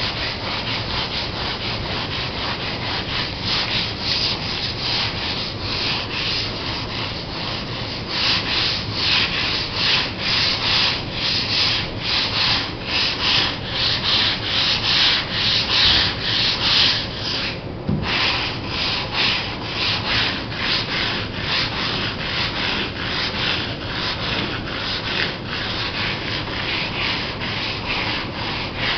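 Sandpaper being rubbed by hand over a Laser sailboat's fiberglass in steady back-and-forth strokes, about two a second. The strokes get louder about a third of the way in and pause briefly a little past halfway.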